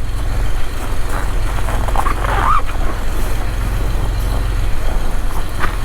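Small Ford tractor's engine running steadily at idle, a low even rumble.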